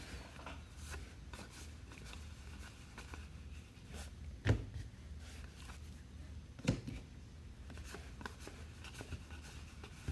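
Trading cards being handled and sorted on a table: light rustling and small clicks, with two louder knocks about four and a half and nearly seven seconds in.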